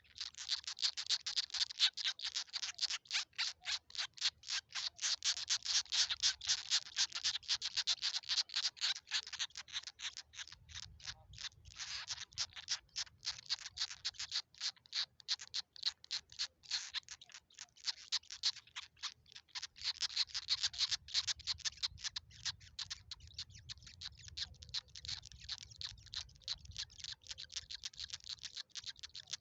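Rufous treepie nestlings begging: an unbroken run of short, harsh calls, several a second, as they are fed.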